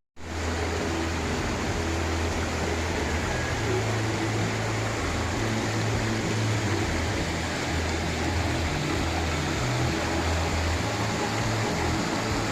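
Waterfall's rushing water, a steady noisy roar with a deep rumble underneath.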